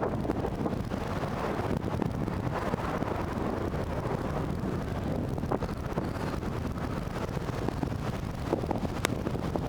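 Wind buffeting the microphone: a steady rough rumble. A single sharp click comes near the end.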